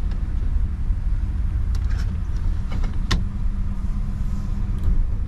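1984 Chevrolet El Camino engine running steadily with the transmission in drive, a low even rumble that sounds strong. A few light clicks cut through it, the sharpest about three seconds in.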